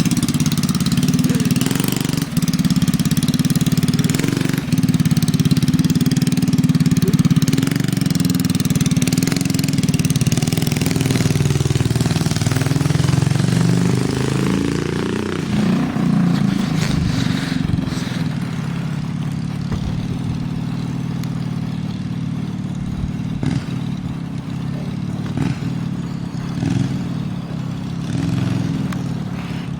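Briggs & Stratton 5 hp single-cylinder engine running steadily, its pitch rising and falling as it is revved about halfway through, then running a little quieter with uneven ups and downs.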